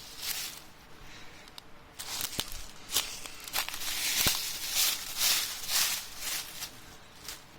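Footsteps brushing through dry grass and plants, a steady rustle about twice a second with a few sharp snaps. The steps ease off briefly about a second in, then carry on.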